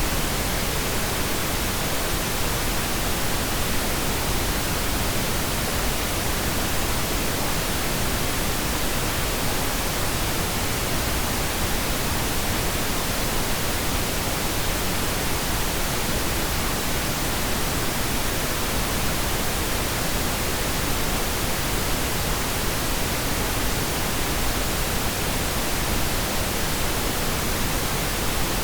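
Steady pink noise: an even, unchanging hiss spread across the whole range, with no drops, clicks or other events.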